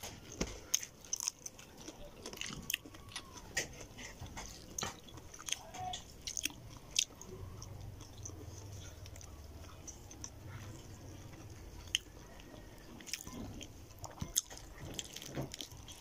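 Mouth sounds of eating shrimp and rice by hand: chewing and biting, with scattered short wet smacks and clicks.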